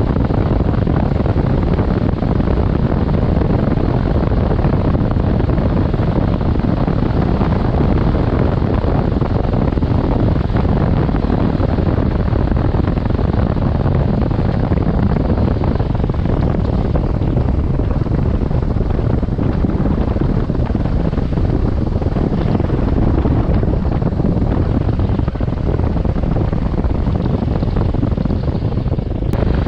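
Wind buffeting the microphone of a riding adventure motorcycle, a loud steady rush with the bike's engine and road noise blended underneath.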